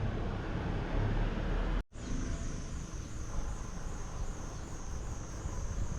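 Outdoor ambience with a low rumble. After a cut about two seconds in, insects drone with a steady, slightly wavering high whine over the rumble.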